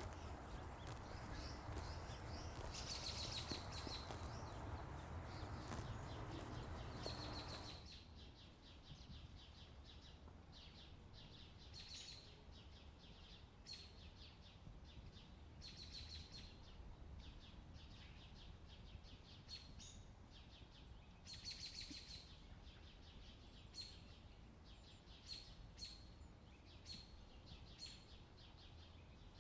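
Small birds calling in short, high chirps, repeated every second or two. A steady rushing noise under them cuts off suddenly about eight seconds in.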